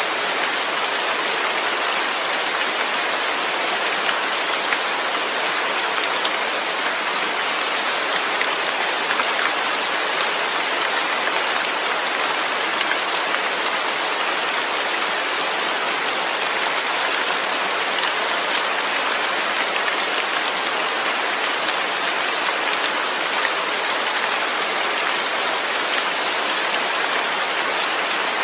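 Steady rain falling, an even hiss of many drops pattering on surfaces.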